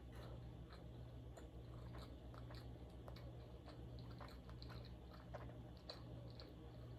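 Faint chewing of sushi into a close microphone, with small irregular mouth clicks over a steady low hum.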